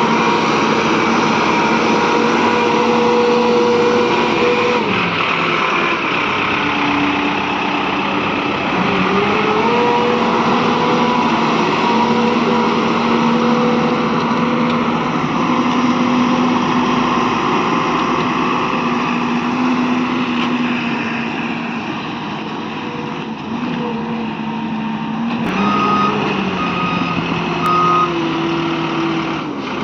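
Diesel engine of an Ajax ARGO 4300 self-loading concrete mixer running hard, its pitch dropping and picking up again several times as the revs change. Near the end come three short beeps.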